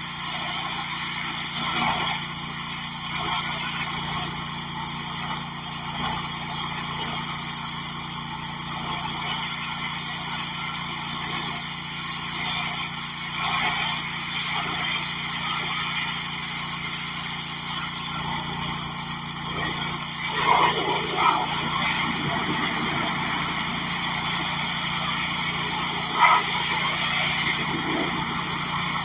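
Gas-engine pressure washer running steadily, a Simpson unit with a Kohler engine. There are a few brief louder bursts about two-thirds of the way through and again near the end.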